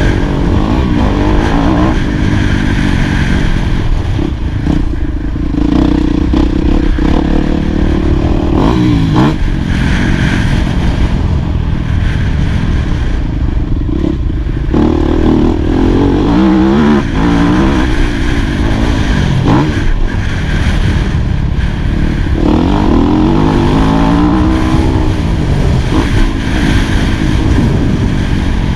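2018 Yamaha YZ250F's single-cylinder four-stroke engine being ridden hard on a motocross track, its pitch repeatedly climbing as it accelerates and dropping off between pulls and gear changes.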